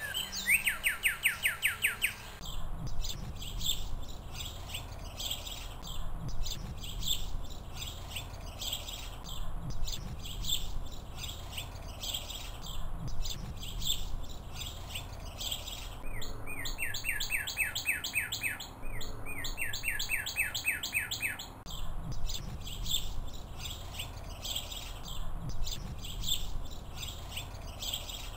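Songbirds calling. A fast trill of quick falling notes in the first two seconds and twice more from about 16 to 21 seconds in, with a short high call repeating a little more than once a second between them. A low rumble runs underneath.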